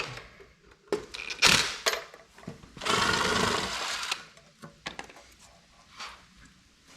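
A bolt being run out with a tool on a small engine: a fast mechanical rattle lasting about a second and a half, about three seconds in, with a few sharp metal clicks and a knock before it.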